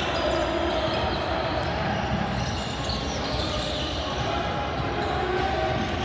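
Sounds of a basketball game in progress: a basketball bouncing on the court, mixed with unclear voices of players and spectators.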